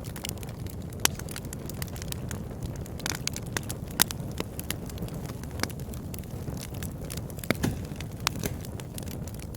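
Wood fire burning in a fireplace: a steady low rumble of flames with scattered sharp crackles and pops, the loudest about a second in and about four seconds in.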